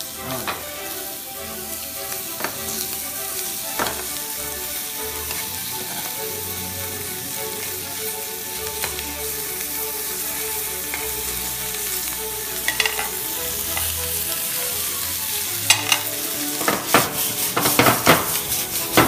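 Large tiger prawns sizzling and frying in a hot pan as they are turned with tongs. From about three-quarters of the way in, sharp pops and crackles come thick and loud as the pan flares into flame.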